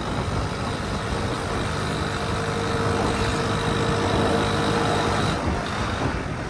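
Honda C70 motorcycle's small single-cylinder four-stroke engine running under way, its note growing louder from about two seconds in and then falling back suddenly about five seconds in.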